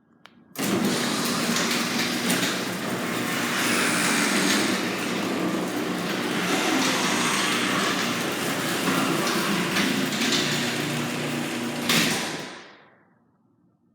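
Garage door opener running while the door travels: a steady motor hum under the noise of the moving door. It starts about half a second in, runs for about twelve seconds and then stops, dying away over about a second.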